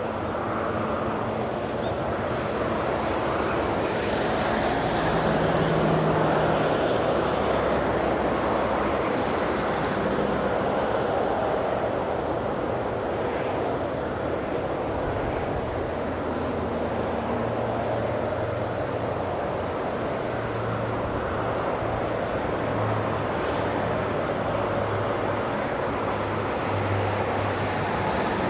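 Airbus A330-200's Rolls-Royce Trent 700 turbofan engines on landing approach: a steady jet rumble that swells to its loudest about six seconds in and then holds.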